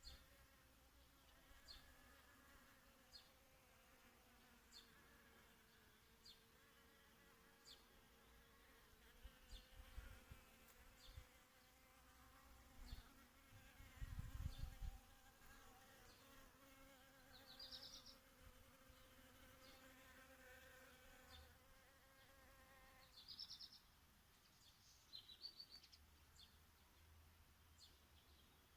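Flying insects buzzing steadily around flowers, with short high bird chirps about every one and a half seconds and three brief bird trills in the second half. Two low rumbles come near the middle.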